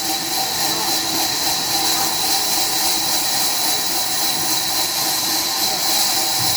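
Sawmill machinery running, a steady loud hiss with faint humming tones beneath it.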